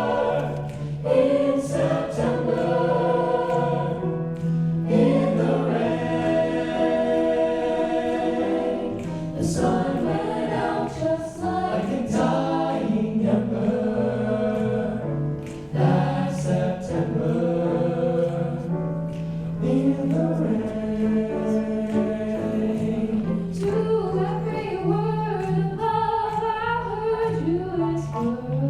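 Vocal jazz choir singing a jazz arrangement, several voice parts moving together in harmony.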